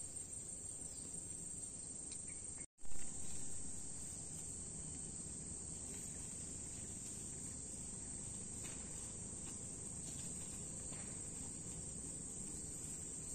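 Steady high chirring of an insect chorus over low outdoor background noise. About three seconds in, the sound cuts out for a moment and comes back with a loud thump.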